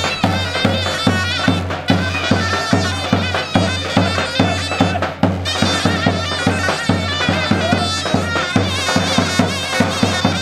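Traditional Turkish folk music: a loud, reedy wind instrument plays a melody over a low drone and a regular drum beat.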